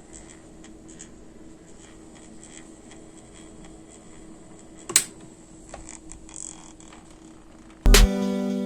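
Faint steady hum of a Deepcool Gammaxx L120T liquid cooler pump running, with light ticks and one sharp click about five seconds in; background music starts near the end.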